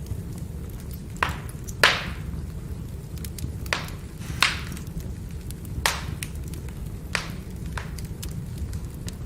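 Firewood burning: a steady low rumble of the fire with sharp, irregular crackles and pops from the burning logs, about seven clear pops, the loudest a little under two seconds in.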